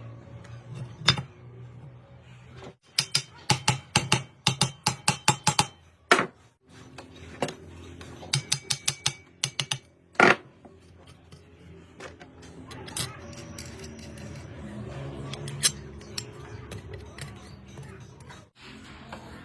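Metal tools and pump parts clicking and clinking against each other in quick runs of sharp strikes, over a steady low hum.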